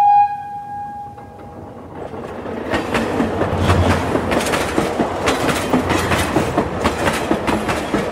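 Locomotive horn of an Indian passenger train sounding one held note, loudest at the start, then fading away over the first two seconds. After that the coach wheels rumble and clatter over the rail joints, growing louder, heard from the open doorway of the moving coach.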